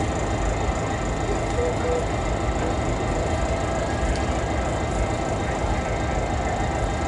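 Canadian Pacific diesel locomotive CP 2246 idling while stopped: a steady rumble with a few faint steady tones above it.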